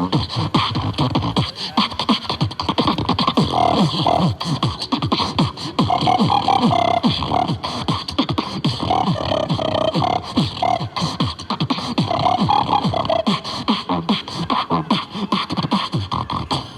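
Beatboxing: a dense, fast run of vocal kick-drum sweeps and sharp clicks and snares, with short hummed notes laid over it through the middle stretch.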